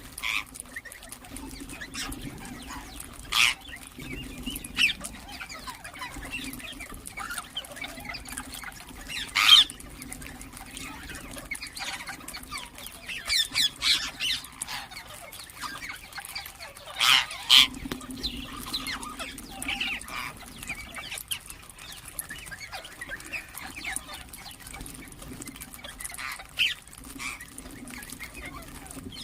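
Ringneck parakeets giving short, sharp high-pitched calls, a handful scattered through, the loudest about nine and seventeen seconds in, with a quick run of three or four calls around thirteen seconds.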